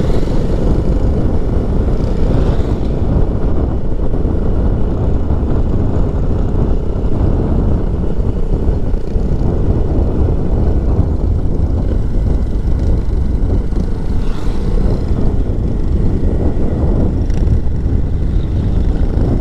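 Motorcycle on the move: steady wind rush on the helmet microphone with the engine running underneath.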